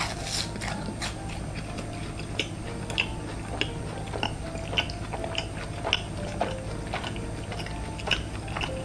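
Close-mic'd biting and chewing of fried cheese balls, with irregular sharp, wet mouth clicks and small crunches.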